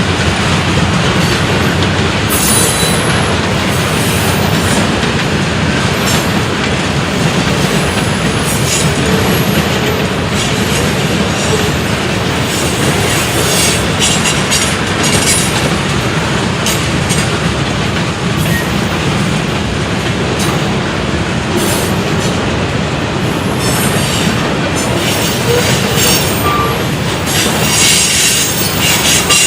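Train rolling past on the tracks: a steady, loud rumble of steel wheels on rail.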